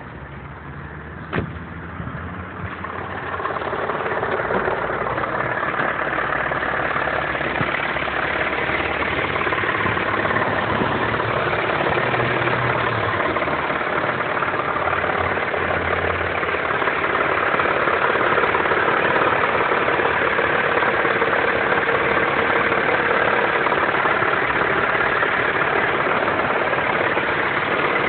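A car's 2.7T engine running steadily at idle, carrying the knock the owner is recording it for. There is one sharp click about a second and a half in, and the engine sound grows louder over the next couple of seconds, then holds steady.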